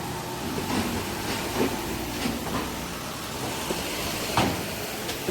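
Steady rumble of heavy vehicles at a ferry's loading ramp, with irregular metallic clunks as wheels roll over the steel ramp plates, the loudest about four and a half seconds in.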